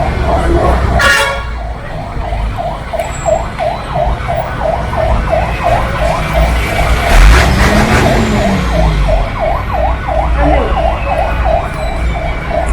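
Busy street traffic with a fast electronic warble repeating about three to four times a second, like a siren's yelp, over the rumble of vehicles.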